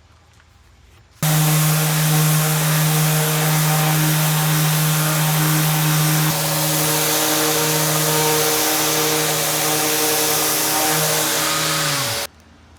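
Electric power tool motor switched on abruptly about a second in, running steadily with a hum under a loud hiss, then switched off near the end and winding down in falling pitch.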